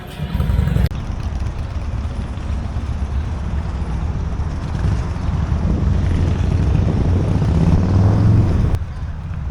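Motorcycle engines running, a deep rumble that gets louder through the stretch and cuts off abruptly near the end.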